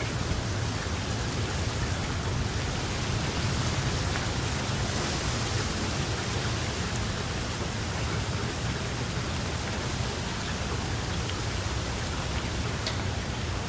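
Steady heavy rainfall, an even hiss with a deep low rumble underneath, a few separate drops ticking near the end.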